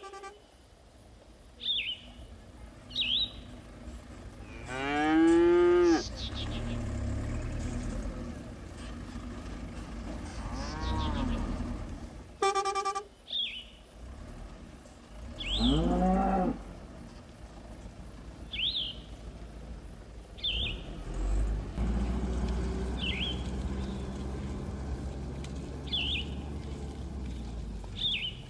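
Cattle mooing: three long calls that rise and then fall in pitch, the first and last loud and the middle one fainter. A bird's short chirps repeat every couple of seconds underneath.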